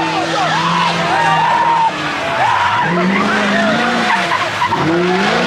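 Car engine revving hard and tires squealing on the pavement, as in a burnout or donut. The engine holds fairly steady at first, then revs up and down repeatedly from about halfway through.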